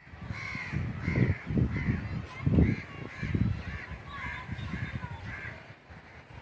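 A bird calling over and over, a string of calls nearly two a second, with loud low rumbles beneath them that are strongest in the first half.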